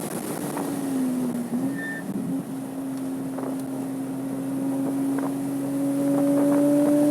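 Porsche 987.2 Cayman S flat-six engine on track: the car is off the throttle at first, the note dips briefly about a second and a half in, then a steady note climbs slowly and grows louder as the car pulls back onto the throttle.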